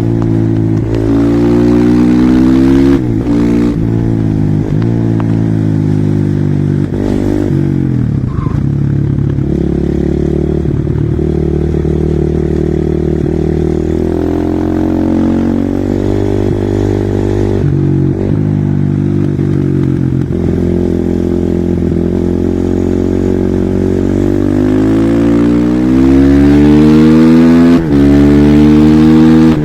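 Husqvarna SMR 450 supermoto's single-cylinder four-stroke engine run hard under acceleration: its pitch climbs repeatedly and drops sharply at each gear change or throttle lift, loudest near the end.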